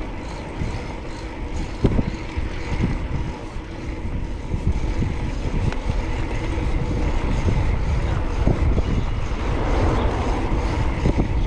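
Wind buffeting the microphone and road noise while riding a fixed-gear bicycle, with scattered small knocks.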